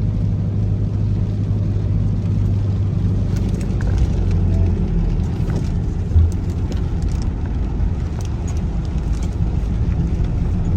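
Car driving along a city street, heard from inside the cabin: a steady low engine and road rumble, with one short thump about six seconds in.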